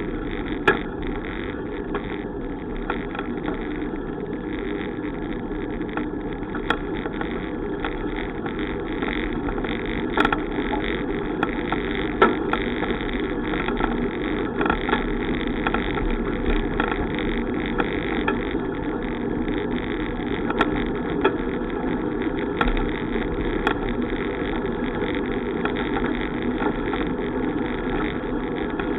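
Steady rushing noise of a bicycle on the move, with scattered sharp clicks.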